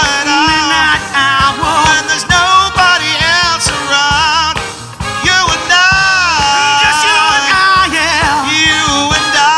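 Soul band playing, with a singer's wavering, vibrato-laden wordless notes over it; the music dips briefly about five seconds in, then comes straight back.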